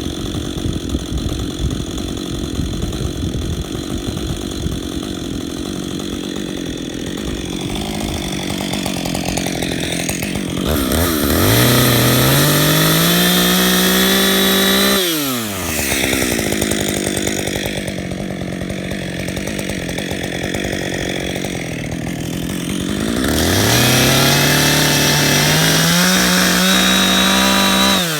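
Chainsaw cutting into a California black walnut stump. The engine runs lower and rougher under load, then twice climbs to a high steady full-throttle pitch for about four seconds and drops back sharply, once about halfway through and once at the end.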